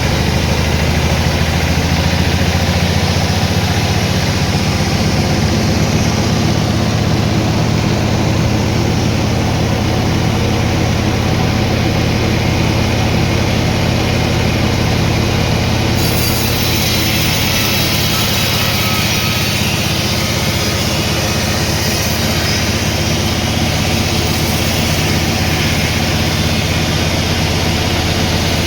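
Sawmill machinery running steadily with a low engine-like hum. A higher hiss joins a little past halfway through, typical of the saw cutting into the log.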